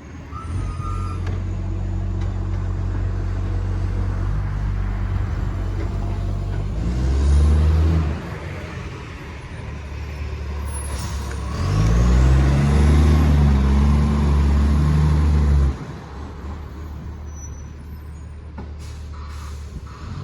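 Side-loader garbage truck's diesel engine, which has a massive exhaust leak, idling and revving up twice. A short rev comes about seven seconds in, and a longer one of about four seconds drops off sharply. A couple of brief clunks follow near the end.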